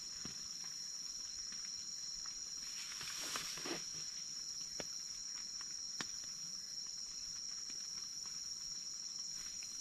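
A steady high-pitched insect chorus drones throughout, with scattered small clicks and a brief rustle about three seconds in.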